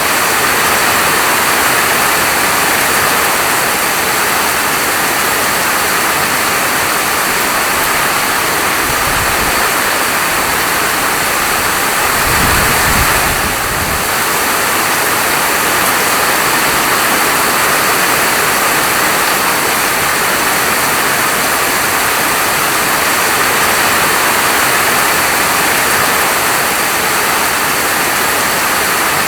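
Steady, dense hiss of falling rain. A low rumble comes in briefly about a third of the way in and again, a little louder, for a couple of seconds near the middle.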